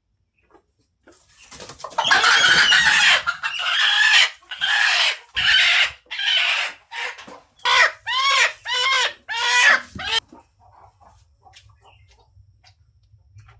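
Chicken calling loudly: a run of about ten calls over some eight seconds, the first ones longer and the last several short, each rising then falling in pitch, before it stops.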